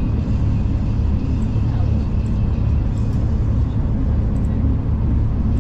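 V/Line passenger train running at speed: a steady low rumble of wheels and track, with a faint high whine that fades out about halfway through.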